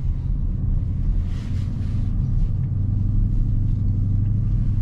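Dodge Charger Scat Pack's 6.4-litre V8 engine running with a steady low rumble as the car drives.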